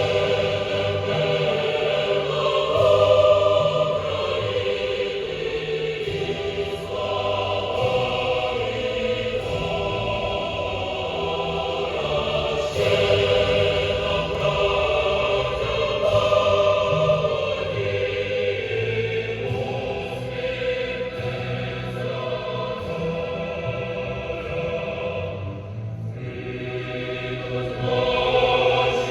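Music with a choir singing, continuous, with a brief dip in level near the end.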